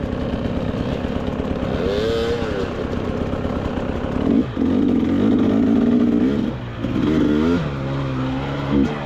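KTM 300 XCW two-stroke dirt bike engine chugging at low revs, then from about four seconds in revved up and down in short throttle bursts, with a brief drop around the middle of the bursts.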